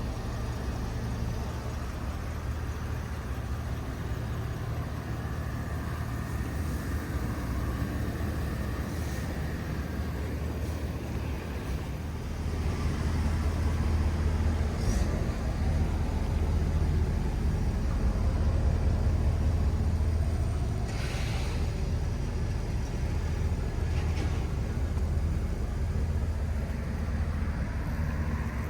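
6.0L Vortec V8 gas engine of a Chevrolet 3500 HD pickup running with a steady low hum. It grows louder about twelve seconds in and eases back down after about twenty seconds.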